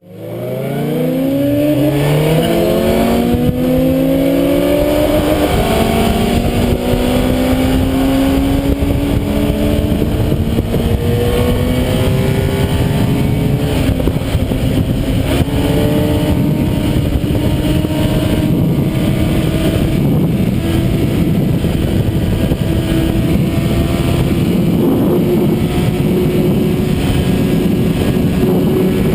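Honda Civic Si engine at full throttle, the revs climbing quickly over the first few seconds and then rising slowly and steadily as the car keeps accelerating.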